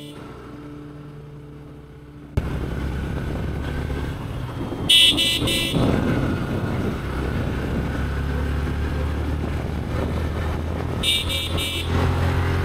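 Motorcycle riding along a road with steady engine and road noise, which cuts in suddenly after a quieter couple of seconds. A vehicle horn sounds several quick beeps about five seconds in, and again near the end.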